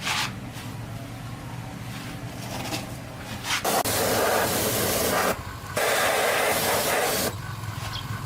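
Steady low engine hum, like a motor idling, with two long bursts of loud hissing spray in the second half, each lasting about a second and a half.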